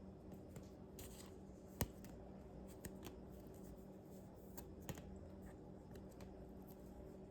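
Plastic binder pages of trading cards being handled and turned: faint rustling with a few short clicks, the sharpest about two seconds in, over a low steady hum.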